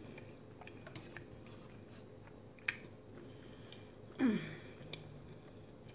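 Quiet chewing of lasagna with small clicks of a metal fork in an aluminium foil tray. About four seconds in, as the fork scoops in the tray, there is one brief louder sound that falls in pitch.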